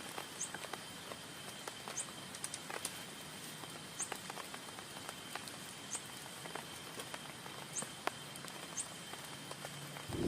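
Rain falling on a tent, a steady hiss with scattered individual drops ticking. A short, high, rising chirp comes about every two seconds, and a low rumble swells in at the very end.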